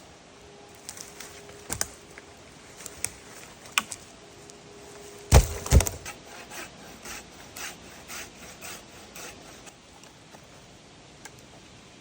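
Pacific yew wood being worked by hand: scattered sharp snaps, two loud knocks about halfway through, then a run of rhythmic rasping strokes, about two a second, that fade out.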